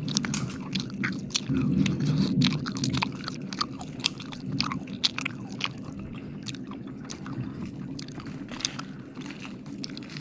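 Close-miked wet mouth sounds: a quick run of clicks and smacks from lips and tongue at the microphone, busiest in the first half and thinning out later.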